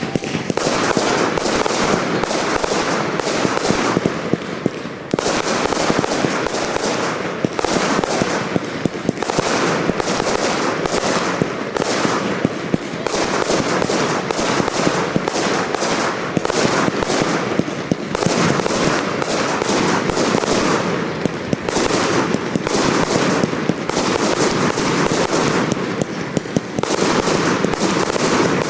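Professional fireworks display: many sharp bangs in quick succession, nearly continuous, easing briefly about 5 seconds in and again around 21 seconds in.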